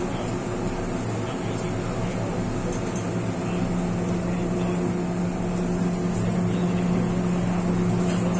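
MTR M-Train on the Tsuen Wan Line running, heard from inside the car: a steady rumble of wheels on rail with a low motor hum that grows stronger about halfway through.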